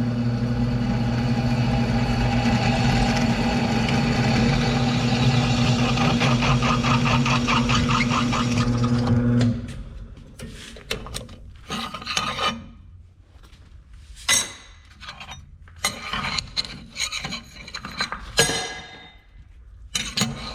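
Electric shop power tool running with a steady hum and a rasping sound as it works metal. It shuts off abruptly about halfway through, and scattered sharp knocks and clinks follow.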